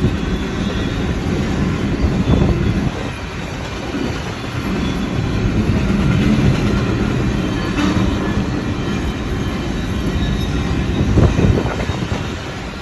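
Train cars rolling past close by: a steady rumble of steel wheels on the rails, broken by a few louder knocks, the loudest a little before the end.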